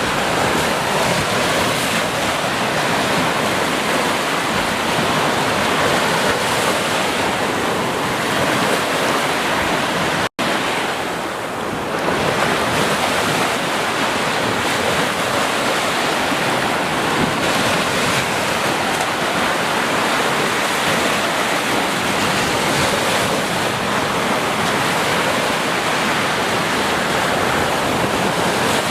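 Ocean surf washing steadily onto a beach, a continuous rushing wash of waves. It is broken once by a split-second dropout about ten seconds in.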